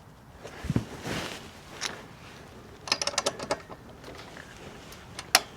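Hand tools at work on a motorcycle: a low thump about a second in, then a quick run of sharp socket-ratchet clicks about three seconds in, and a single sharp click near the end.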